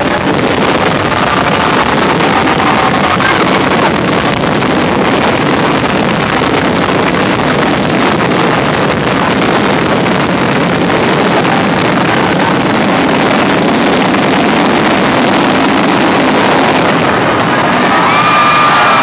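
Fireworks finale: shells bursting in rapid, overlapping succession, merging into one continuous loud rumble and crackle. Near the end, a crowd starts cheering and whistling over it.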